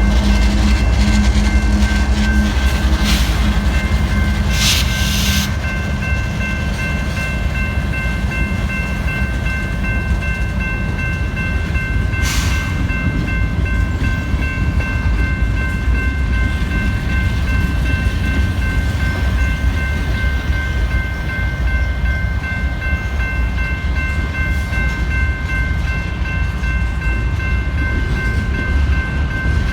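CSX manifest freight cars rolling past with a steady heavy rumble, over a continuous high-pitched ringing whine. There are a few short clanks, about 3, 5 and 12 seconds in.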